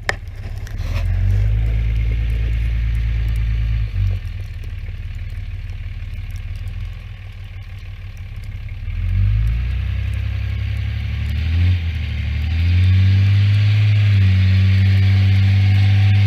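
A motor vehicle engine running steadily, revved up a little around the middle, then settling into a louder steady run near the end.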